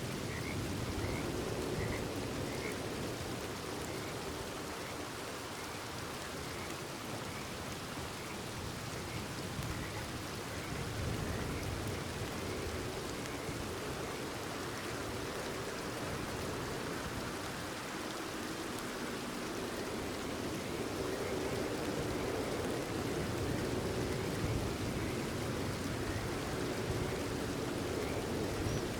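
Steady rain falling, with frogs croaking throughout in a low chorus and a few higher calls in the first few seconds.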